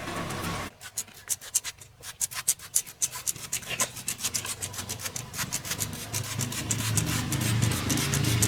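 Stiff brush scrubbing in quick back-and-forth strokes, a rapid run of scratchy rasps starting just under a second in. A low hum builds up underneath near the end.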